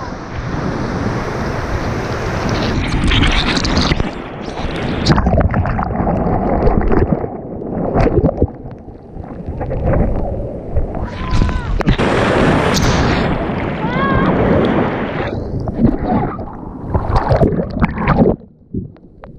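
Ocean surf breaking and rushing on the shore, with wind buffeting the microphone; a few brief voices cut in around the middle.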